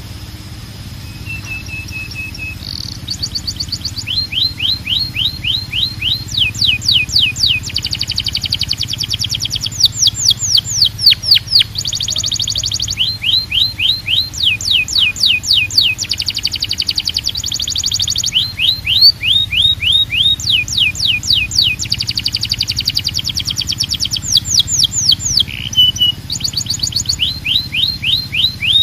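Canary singing: long fast trills of rapidly repeated down-slurred notes, the song switching from one trill to another every second or two, with a few short held whistles near the start.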